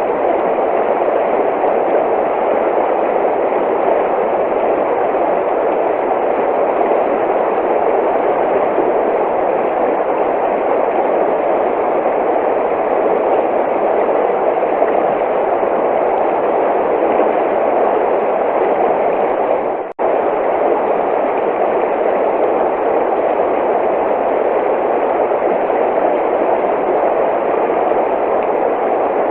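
Running water rushing steadily, a full, even roar of a stream or waterfall, with one brief dropout about two-thirds of the way through.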